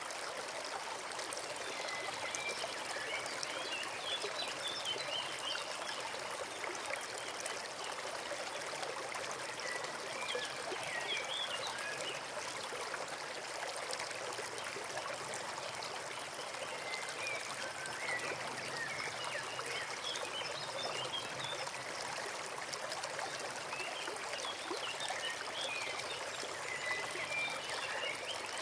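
Forest stream running steadily over its bed, with clusters of brief high trickling notes coming and going over the flow.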